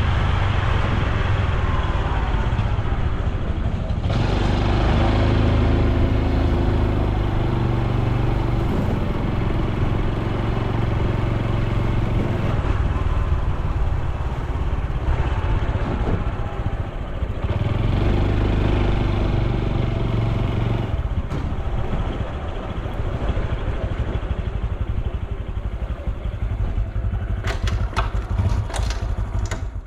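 Honda Super Cub C125's air-cooled single-cylinder four-stroke engine and exhaust running steadily while riding, with road and wind noise. A few sharp clicks come near the end.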